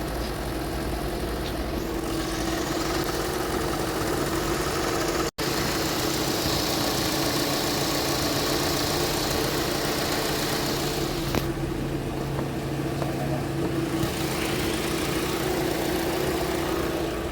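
Car engine idling steadily, with a hiss over it for a few seconds in the middle. The sound cuts out for an instant about five seconds in.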